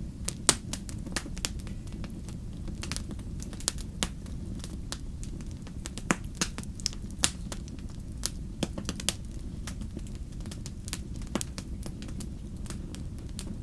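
Wood fire crackling in a fireplace: a steady low rumble of the flames with irregular sharp pops and snaps, a few of them louder.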